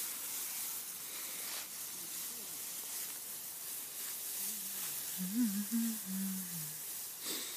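Faint, steady outdoor hiss of background noise. A faint voice is heard briefly a little past the middle.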